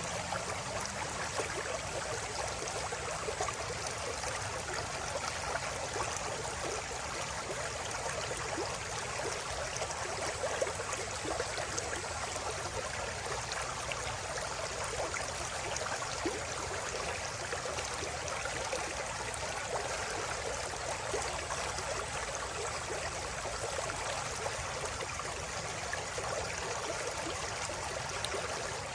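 River water flowing and babbling over stones, a steady rushing with small splashes.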